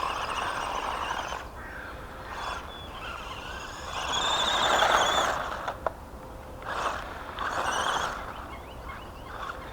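Brushed 370 electric motor and drivetrain of a 1/18 Helion Animus short course RC truck whining in about four bursts of throttle, the pitch rising and falling, with the tyres spinning and scrabbling on loose dirt and gravel.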